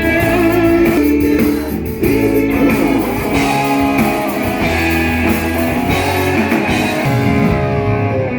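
Live band playing, guitar and a steady low bass line over drums, with a singing voice; the cymbals and high end drop away near the end as the playing winds down.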